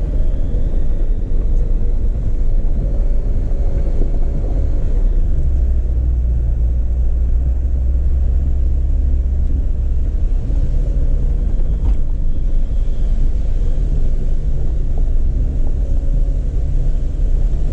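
A Jeep driving onto a dirt jeep trail, its engine and tyres making a steady low rumble.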